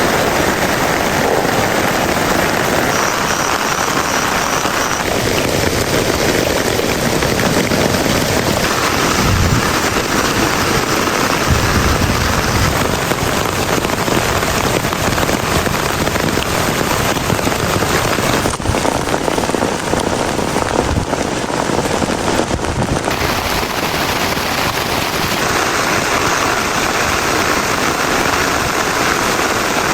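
Heavy rain falling steadily as a dense, even hiss of drops.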